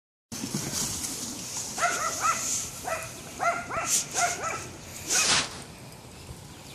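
A dog barking at a dog park: a quick series of short, high-pitched barks, roughly eight over about three seconds, each rising and falling in pitch, with a couple of brief hissing bursts among them.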